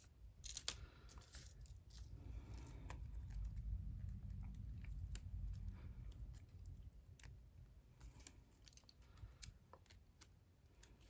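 Faint scattered clicks and rustles of paper craft cards and label stickers being handled and set down on a desk, with a low rumble for a few seconds in the middle.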